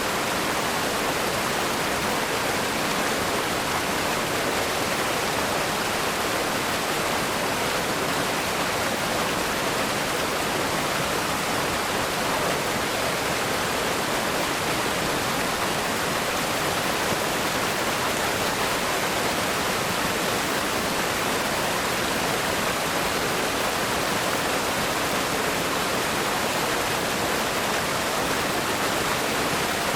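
River rapids rushing over rocks: a steady, even roar of fast-flowing water.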